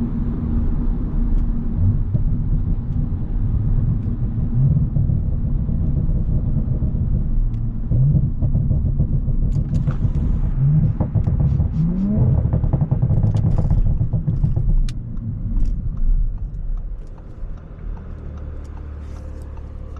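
Audi S5's engine and road noise while driving, the engine note rising several times as the car accelerates, then easing off near the end as the car slows.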